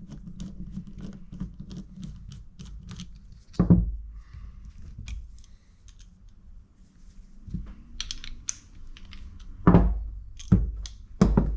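Small metal clicks and taps of a screwdriver and carburetor parts on a dirt bike carburetor while the main jet is unscrewed, with a rapid run of light clicks at first and a few louder knocks, one about four seconds in and three near the end. A low steady hum runs underneath.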